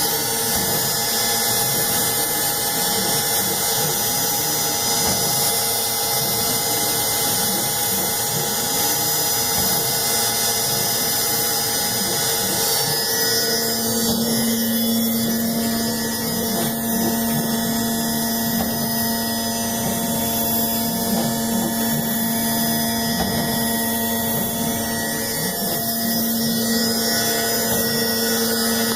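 ShopBot PRS 120-60 CNC router running a dry-run hole program: the Columbo spindle spins steadily with a constant whine while the axis drive motors rise and fall in pitch as the gantry travels back and forth. A steady low hum comes in about halfway through.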